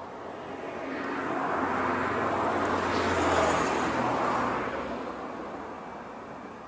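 A vehicle passing by: a rushing, noisy sound that swells to a peak a little past three seconds in, then fades away.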